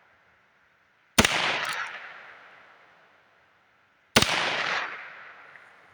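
Two shots from a Heritage Rough Rider single-action .22 LR revolver firing Federal Punch rounds, about three seconds apart, each ringing off in a long echo that fades over a second and a half.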